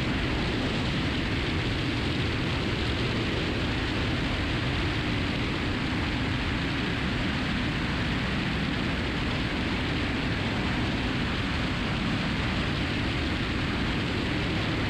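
Steady cockpit noise of a 1969 Cessna 172 in flight: engine and propeller drone, an even rushing noise with no distinct pitch.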